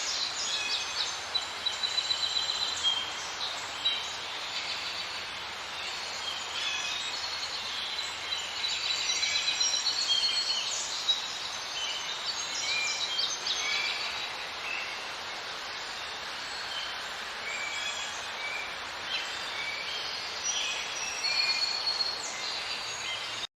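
Many small birds chirping and trilling over a steady outdoor hiss, dense and overlapping throughout.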